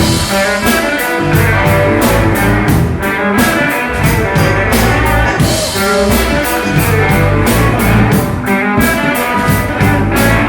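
Blues-rock band playing with electric guitar over a steady drum beat, with no singing.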